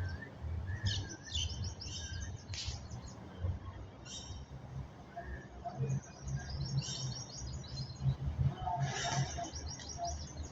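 Several small birds chirping and twittering in repeated bursts of quick, high notes over a low steady hum.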